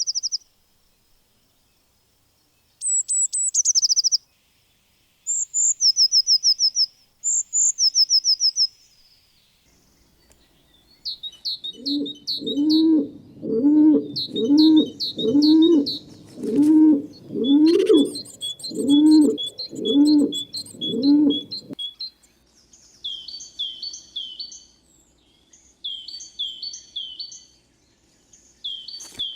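Several birds calling in turn: short high chirps in quick runs, then a series of about ten low notes, roughly one a second, under high chirping, then more quick high chirps.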